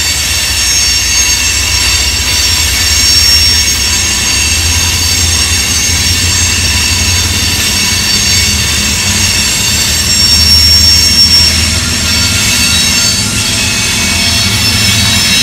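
Loaded rock-train cars, open-top aggregate hoppers and gondolas, rolling past close by. Their wheels make a steady low rumble on the rail, over a continuous high-pitched squeal from the wheel flanges.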